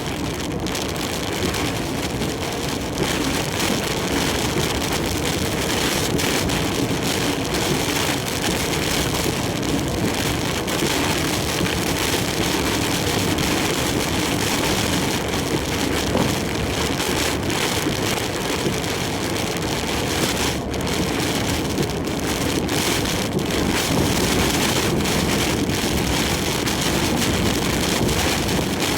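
Heavy typhoon rain and wind beating on a large truck as it drives along the expressway, a steady dense rush over the truck's road noise.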